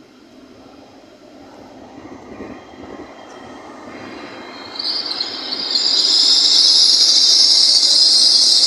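LNER Azuma Class 800 bi-mode train approaching and running past the platform. Its rumble and wheel noise on the rails grow steadily louder, and about five seconds in, as the cab comes level, it becomes a loud, steady high-pitched rush of wheels and passing coaches.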